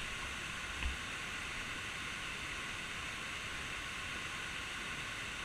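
Steady rushing hiss of a waterfall, with a faint low thump about a second in.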